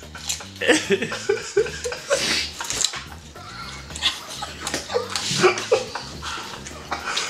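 A raw carrot being bitten and chewed fast, close up: a run of short, sharp crunches and mouth sounds.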